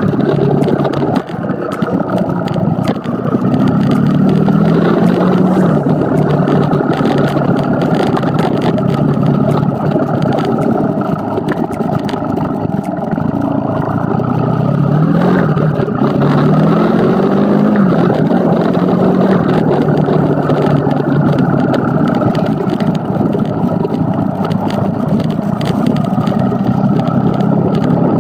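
Vehicle engine running on the move, its pitch climbing and dropping a few times as it speeds up and changes gear, over steady road noise.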